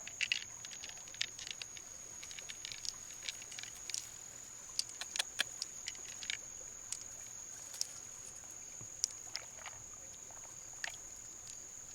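Scattered light clicks and taps, some in quick little clusters, over a steady high-pitched whine.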